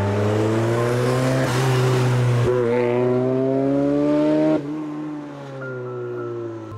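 1986 Ford Sierra RS Cosworth's turbocharged 2.0-litre four-cylinder engine accelerating hard, its note climbing steadily. About four and a half seconds in, the sound drops suddenly in loudness and pitch, then begins to climb again.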